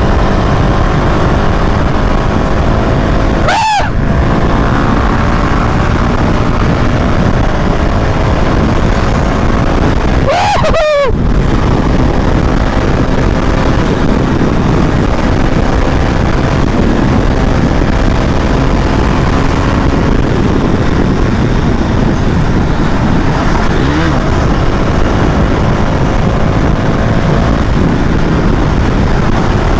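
Motorcycles running at highway speed, with heavy wind rush on the helmet-camera microphone over the engines, whose pitch slowly rises and falls. The rush drops out briefly twice, about 4 and 11 seconds in.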